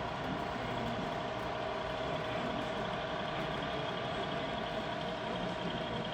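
Steady mechanical drone with a constant hum, engine-like and unchanging.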